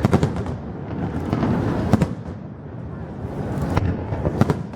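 Aerial fireworks bursting: sharp bangs, a couple close together at the start, another about two seconds in and two more near the end, with a rumbling crackle between them.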